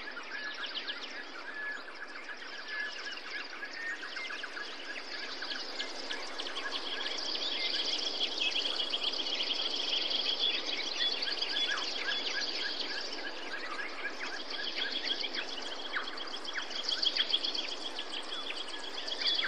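Birds chirping and trilling in rapid repeated notes over a steady background hiss, with a held high note through the middle.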